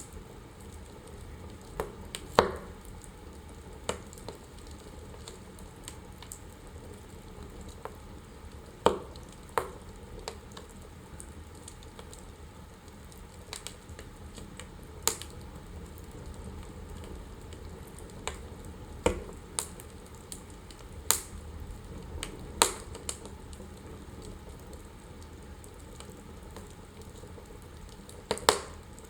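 Wood fire burning in a fireplace: a steady low rush of the flames with sharp, irregular crackles and pops of the burning logs, a few of them loud snaps.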